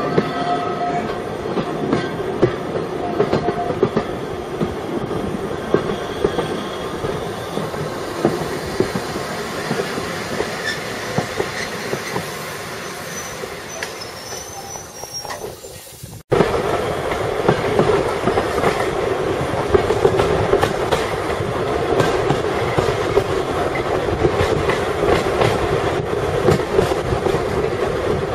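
A train running on rails: steady wheel clatter over the track with a faint high squeal. About twelve seconds in it fades away, then cuts off abruptly, and a fresh stretch of the same kind of train running starts at once.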